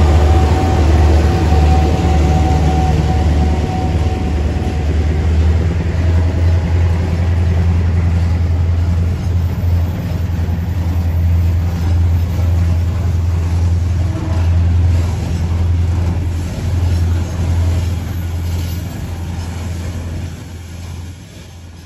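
Diesel engines of passing EMD G26MC-2U locomotives running under load, a deep steady drone with a higher whine that fades over the first few seconds as they move away, blending into the rumble of coal container wagons rolling by on the track. The sound dies down near the end.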